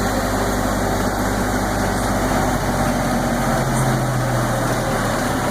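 Zoo tram's engine running steadily as the tram nears its stop, a steady low tone joining the hum a little past halfway.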